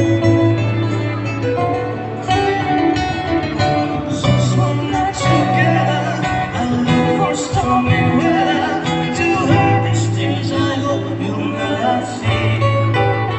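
A song sung over guitar accompaniment, with long held bass notes that change every few seconds.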